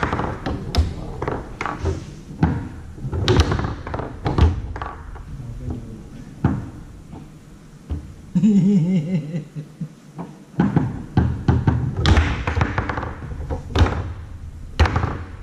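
Foosball being played on a Tornado table: sharp, irregular knocks and cracks as the ball is struck by the men and hits the walls and the rods bang. For about two seconds in the middle, a wavering pitched sound rises over the hits.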